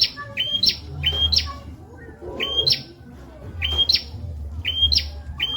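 Prenjak (prinia) calling in repeated short high phrases, each a held note that jumps into a quick upward sweep, with a pause of about a second near the middle.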